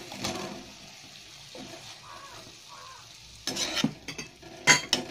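Blanched cauliflower florets dropped into tomato paste and oil sizzling in a steel kadai, with a steady frying hiss. They are then stirred with a metal slotted spoon, which scrapes and knocks against the pan twice in the last couple of seconds.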